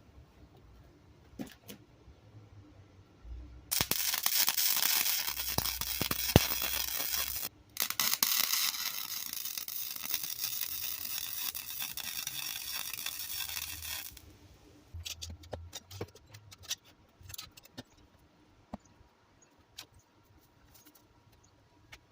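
Wire-feed welder arc crackling and sizzling in two runs, about four and six seconds long with a brief stop between, as a weld bead is laid on an exhaust pipe patch. Faint clicks and taps come before and after.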